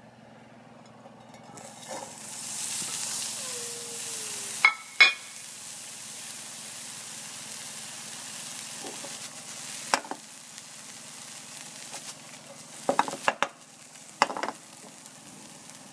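Live chinicuiles (red maguey worms) frying in hot oil in a pan. The sizzle swells sharply about two seconds in as they hit the oil, then settles into a steady sizzle, broken by a few sharp knocks.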